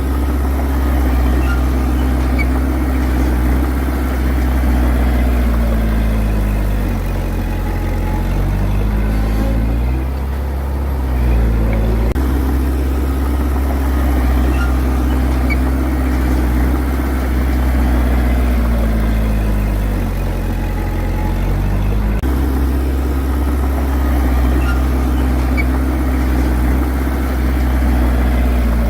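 Heavy diesel engine of a bulldozer running loud and steady. Its pitch sags and then climbs back twice, about seven and twenty seconds in, as the engine speed changes.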